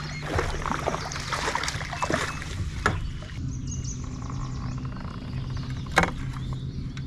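Kayak on the water: a run of splashing in the first few seconds, two sharp knocks about three and six seconds in, and a steady low hum underneath.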